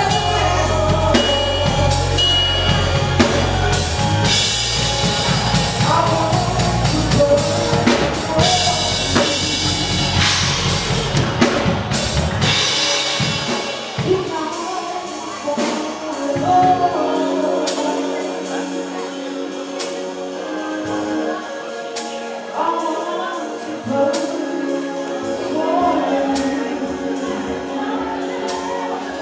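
Live gospel praise music: drum kit and bass under singing. About thirteen seconds in, the drums and bass drop out, leaving sustained instruments and singing voices.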